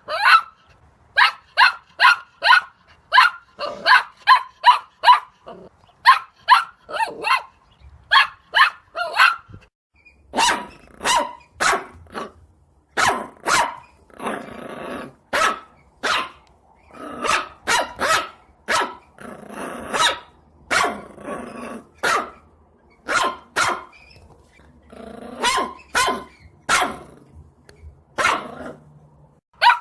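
A dog barking over and over: quick, sharp barks two or three a second at first, then from about ten seconds in, spaced-out barks with longer stretches of growling between them.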